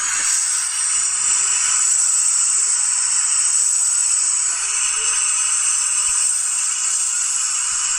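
Recorded classic-car engine sound played through a small speaker built into a model display case, thin and hissy with almost no low end, running steadily.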